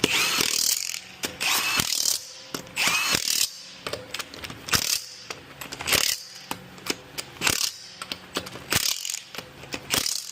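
Wrench running lug nuts onto a wheel in about eight short bursts, each roughly half a second to a second long, with a rattling whine that rises and falls in pitch.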